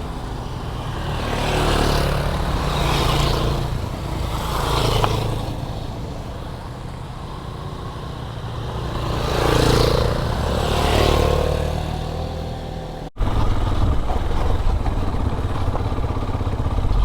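Motorcycle engine running on the move, with wind and road noise, the sound swelling and fading several times. A sharp momentary drop in sound comes near the end before the running sound resumes.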